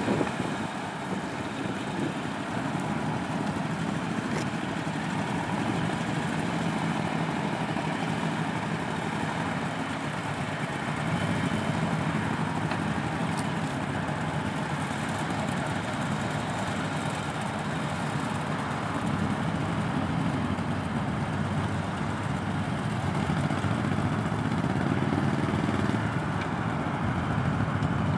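Several motorcycle engines running at low speed in a steady drone that rises and falls a little.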